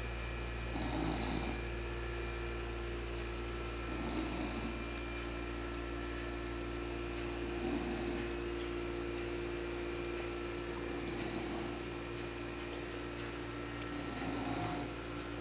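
English bulldog snoring at rest, five slow snoring breaths about three and a half seconds apart, over a steady electrical hum.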